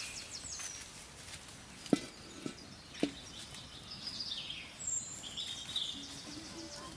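Birds chirping and twittering in high, quick calls, with three sharp knocks about two, two and a half and three seconds in.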